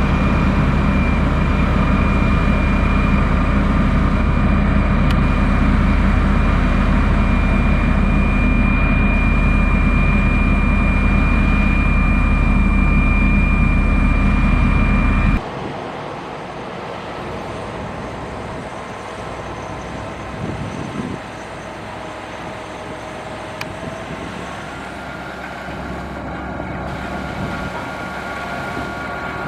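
Diesel engine of heavy construction machinery running steadily, with a steady high whine over it. About halfway through the sound drops suddenly to a quieter engine sound with a different pitch.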